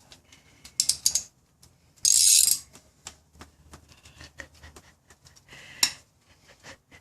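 Irregular metallic clicks and rattles of hand tools being handled, with a short loud burst of hiss about two seconds in.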